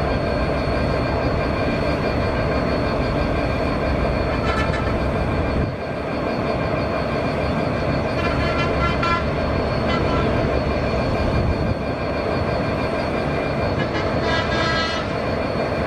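Diesel locomotive hauling a train of passenger coaches, its engine running and wheels rolling on the rails as it comes round a curve, with a few brief high-pitched squeals.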